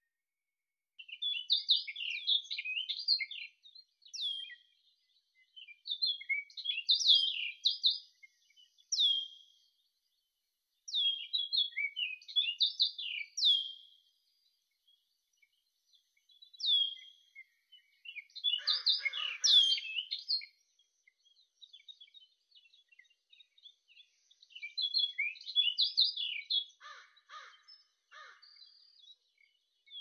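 A songbird singing in short phrases of quick chirps and downward-slurred whistled notes, with pauses of a second or two between phrases.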